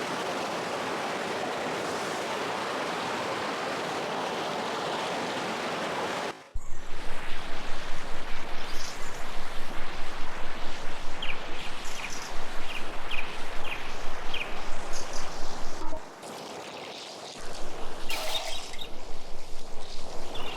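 River water rushing steadily for about six seconds, then after a sudden break a fast, even pulsing sound, about three beats a second, with a few short high chirps; the pulsing stops briefly near the end and starts again.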